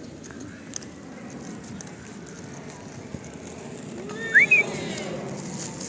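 A person whistling two short, sharp rising notes about four seconds in, over a steady low rustling noise.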